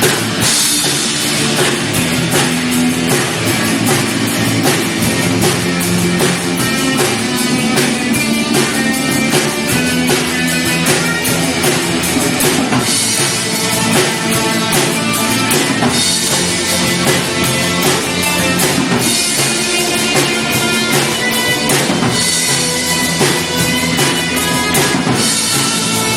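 Live rock band playing an instrumental passage with a full drum kit and electric guitar, loud and steady.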